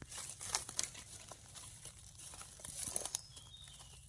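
Irregular rustling and crackling of dry forest leaf litter, with scattered sharp snaps.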